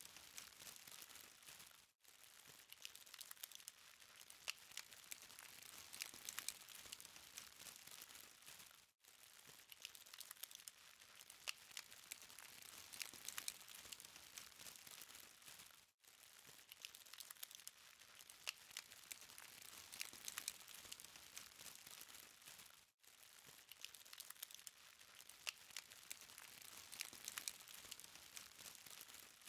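Burning charcoal crackling faintly, a dense run of small quick ticks and pops. It cuts out for a moment about every seven seconds.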